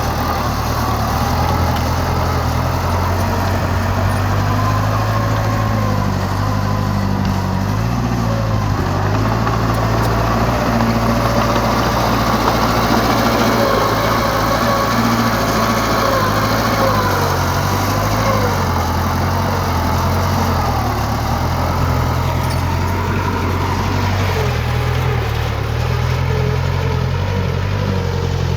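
Diesel engine of heavy earthmoving machinery running steadily, its pitch stepping up and down with the load, with a wavering higher whine above it.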